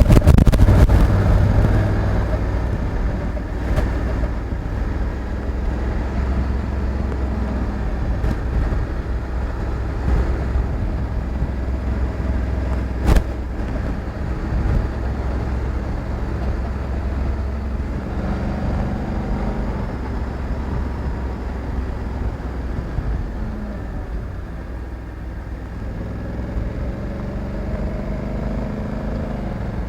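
Honda Africa Twin 1100's parallel-twin engine running on the move, with road and wind noise. The engine note rises in pitch as it accelerates about 18 seconds in and again near the end, and there is a single sharp click about 13 seconds in.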